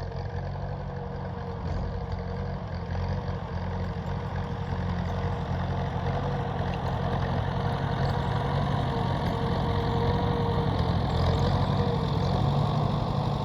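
Ford 800 tractor's four-cylinder engine running steadily while pushing snow, gradually getting a little louder.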